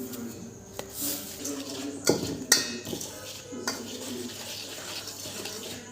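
Kitchen utensils and dishes clinking and clattering as food is handled, with a few sharp metal knocks; the loudest come about two and two and a half seconds in.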